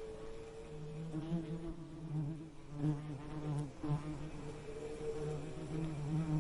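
Bees buzzing in a steady drone whose pitch wavers as they fly, swelling and fading, with a brief drop just before the end.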